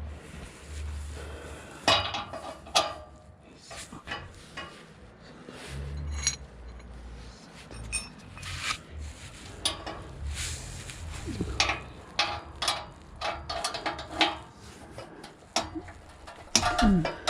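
Metal hand tools and parts clinking and knocking in irregular sharp clicks, as a wrench, sockets and car-lifting gear are handled.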